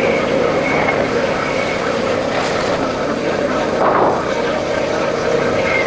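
Royal Enfield Bullet motorcycle running steadily on the move, its engine note under a constant rush of wind and road noise, with a brief louder whoosh about four seconds in.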